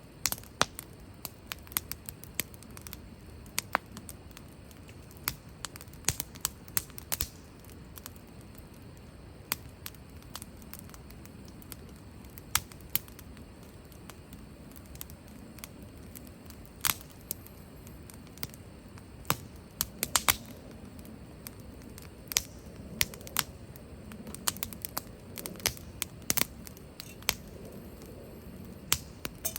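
Wood fire crackling in a fire pit: irregular sharp pops and snaps, some in quick clusters, over a steady low rush of burning.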